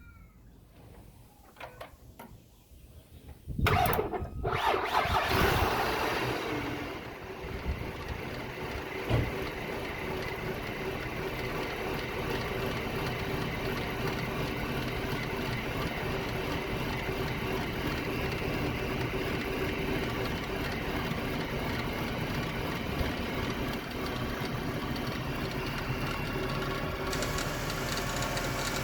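Ford BF Falcon engine cranking and catching about four seconds in, flaring loudly for a few seconds, then settling into a steady idle. This is its first start after the water pump, thermostat and oil pressure sender were refitted.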